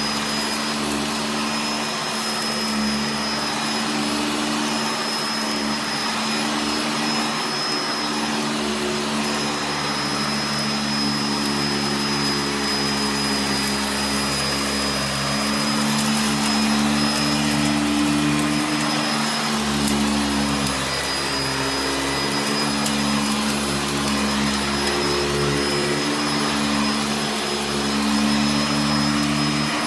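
Upright vacuum cleaner running steadily, with a motor hum and a constant high whine, as it picks up rock salt and dirt from the floor. The hum wavers briefly about two-thirds of the way through.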